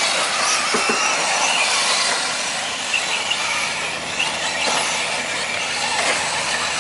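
Radio-control short course trucks racing: a steady high-pitched wash of motor whine and tyre noise, with pitch rising and falling as the trucks accelerate and brake.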